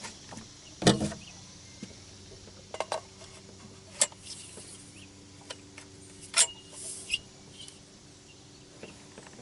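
A handful of scattered knocks and clicks from gear being handled in a boat, over a faint steady hum.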